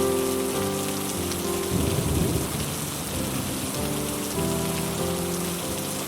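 Heavy rain on a metal roof, with a low rumble of thunder about two seconds in, over soft music of held notes.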